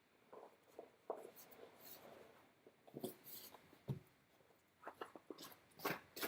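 Irregular light scuffs, taps and knocks, sparse at first and more frequent in the second half, with a few duller thumps.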